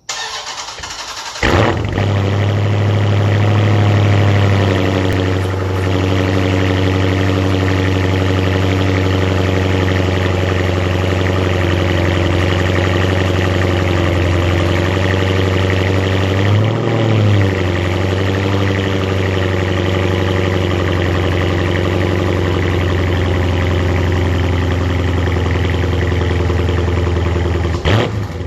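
Dodge Challenger SRT 392's 6.4-litre Hemi V8 cranking for about a second and a half, then catching with a flare. It holds a higher idle for a few seconds, then drops to a steady idle, with one brief blip of the throttle near the middle. This is its first start running on E80 ethanol blend through a ProFlex flex-fuel kit on the stock tune. A sharp knock sounds near the end.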